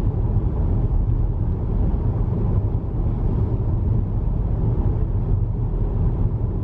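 Steady low rumble of a car driving along a road at speed, engine and tyre noise heard from inside the cabin.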